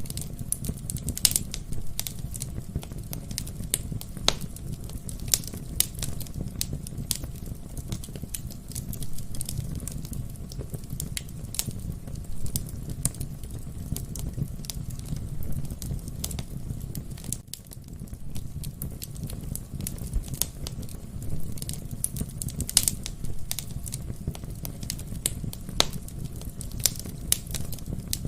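Wood fire burning in a fireplace, a steady low rumble of flames with irregular sharp crackles and pops from the burning logs.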